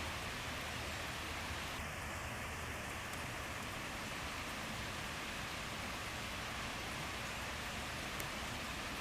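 Steady rain falling, an even hiss of drops with a few faint separate drop ticks.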